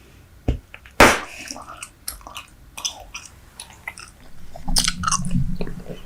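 Close-miked chewing of Super Bubble bubble gum: wet smacks and clicks, with one loud sharp snap about a second in.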